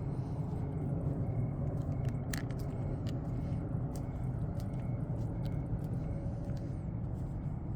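Crickets chirping faintly in short, evenly spaced chirps over a steady low rumble, with a few soft crunching clicks.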